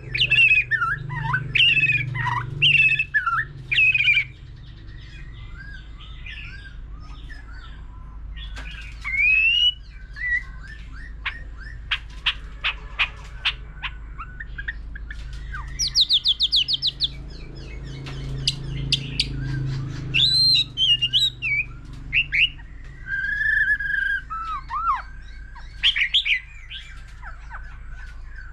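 White-rumped shama singing a varied song: loud whistled phrases at first, then a quieter stretch of sharp clicking notes, a fast trill near the middle and more whistled phrases toward the end.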